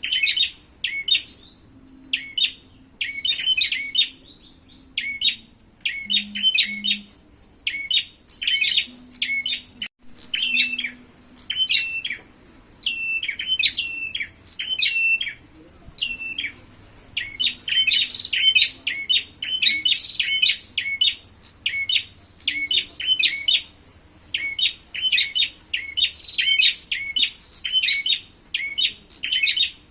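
Prenjak (prinia) birds giving their agitated 'fighting' calls: rapid runs of sharp, high chirps repeated over and over, with only brief pauses between bursts.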